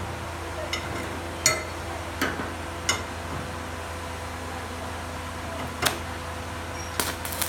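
A steady electrical hum with a few sharp clinks and knocks scattered through it, the loudest about a second and a half in.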